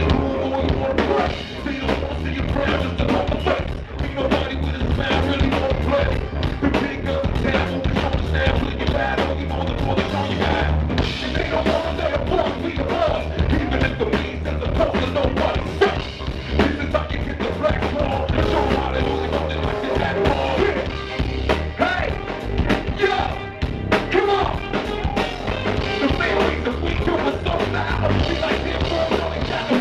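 Live band playing a song, with drum kit, bass and electric guitar.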